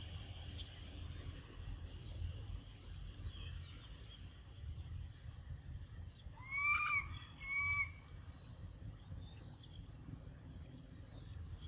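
Small birds chirping in the trees over a low rumble, with two louder calls that rise and fall, about six and a half and seven and a half seconds in.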